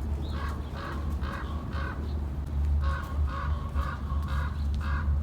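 A crow cawing in two runs, about four caws and then about five, roughly two a second, over a low steady rumble.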